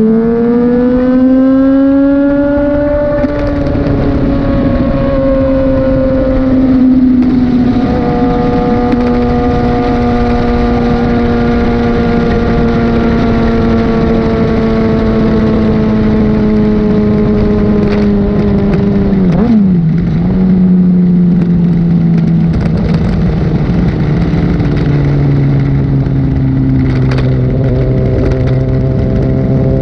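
A 1000 cc sportbike engine pulling under throttle, its pitch rising for the first few seconds with gear changes around 3 and 7 seconds in. The engine note then sinks slowly as the bike eases off, with further gear changes near 20 and 25 seconds, over a steady rush of wind.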